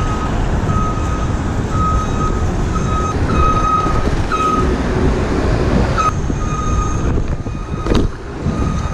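New York City subway train running, a steady heavy rumble with a high-pitched metallic squeal that comes and goes in short stretches over the first few seconds. A sharp knock about six seconds in and another near the end.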